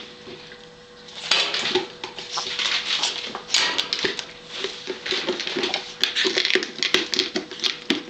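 Blue-and-gold macaw making scratchy, hissy noises, then a run of sharp clicks in the second half, over a faint steady hum.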